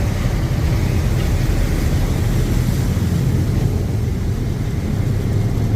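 Passenger riverboat's engines running with a steady low rumble under a constant rushing noise.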